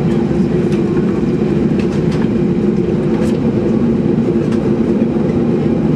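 Cabin of a Boeing 737-800 taxiing: a steady rumble from its CFM56 engines and rolling wheels with a constant low hum, and scattered light knocks as the wheels cross bumps.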